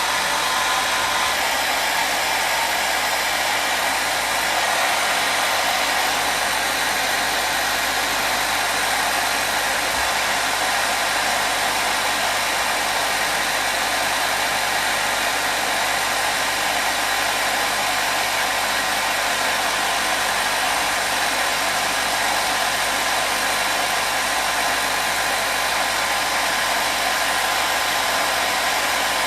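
Hair dryer blowing steadily: a constant whooshing hiss with a faint whine over it, unchanging throughout.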